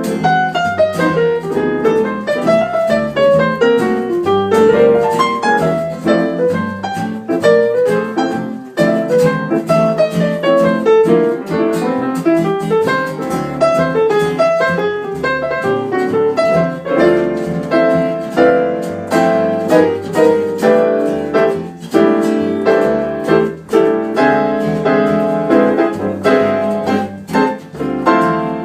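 Piano music: a piano playing busy, quickly moving lines of notes without pause.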